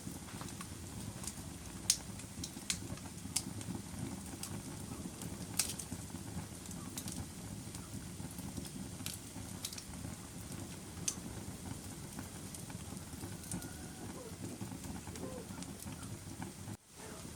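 Wood fire burning in a fireplace: a steady low rumble with scattered sharp crackles and pops. The sound cuts out for an instant near the end.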